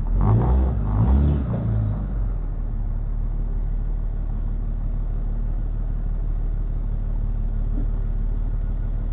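Diesel truck engine running. For the first two seconds it is louder and its pitch shifts up and down, then it settles to a steady low idle.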